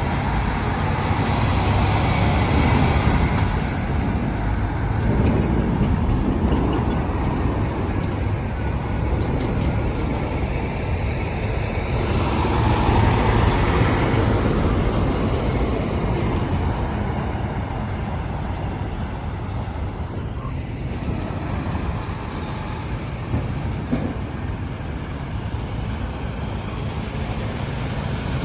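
Road traffic with heavy trucks passing: a continuous rumble of engines and tyres that swells as a truck goes by, once near the start and again about halfway through.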